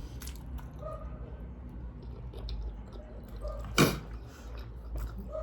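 Close-up chewing and mouth sounds of a person eating Buldak spicy noodles, with small wet clicks and one sharp click about four seconds in.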